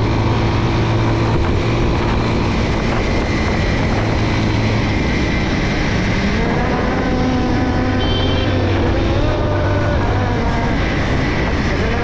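Motorcycle engine running while riding, with wind rushing over the microphone; the engine pitch rises and falls a few times in the second half.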